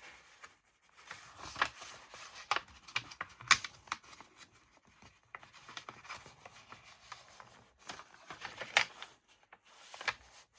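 Scissors cutting through a sheet of paper, with the paper being handled and rustled: irregular crisp snips and rubs.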